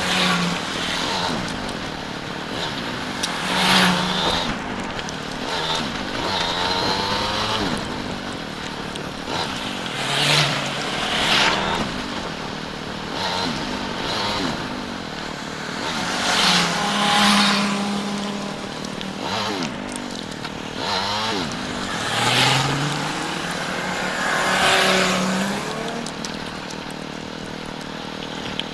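Motorcycle engine running on the move, its pitch rising and falling again and again with throttle and gear changes, with several short swells of rushing noise.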